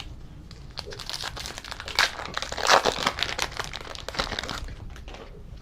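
Plastic foil wrapper of a trading-card pack being torn open and crinkled: a dense run of crackles from about half a second in until about four and a half seconds in.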